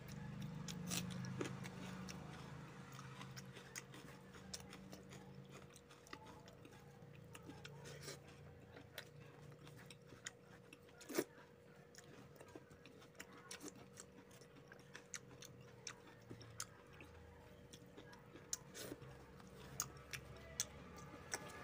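Close-up eating sounds: a man chewing mouthfuls of rice and fish curry and working the rice with his fingers on a banana leaf, with scattered sharp smacks and clicks. One louder click comes about halfway through. A faint steady hum runs underneath.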